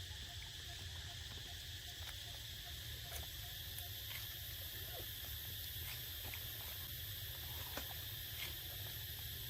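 Steady high-pitched drone of insects, over a low rumble, with a few faint scattered ticks.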